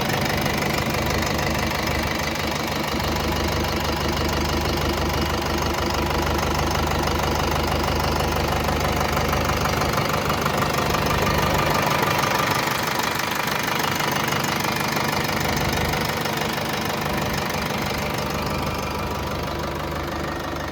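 Fendt Farmer 409 Vario tractor's diesel engine running steadily, with a slight shift in its low hum partway through.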